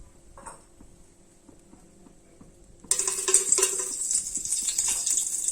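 A few faint utensil clicks, then about three seconds in hot oil in a cooking pot suddenly starts sizzling and keeps sizzling steadily as spices go into it.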